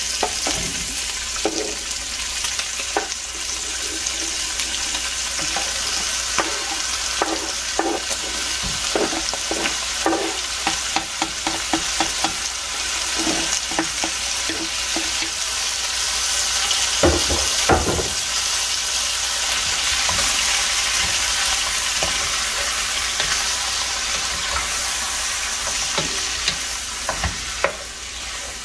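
Pork rib pieces sizzling in hot oil in a pot while chopped tomato and onion are scraped in from a wooden cutting board and stirred with a wooden spoon: a steady sizzle with many short scrapes and knocks against the pot.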